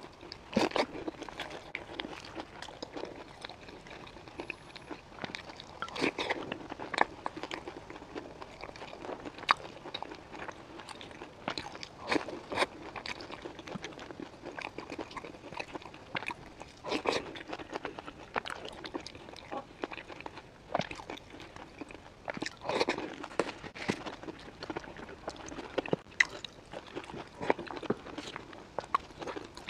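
Close-miked crunching and chewing of a sesame-crusted pumpkin pie dipped in milk: louder crunchy bites every few seconds, with chewing crackle between them.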